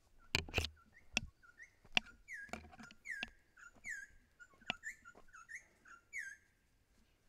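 A bird giving a rapid series of short, high chirps, with several sharp knocks among them, the loudest in the first second.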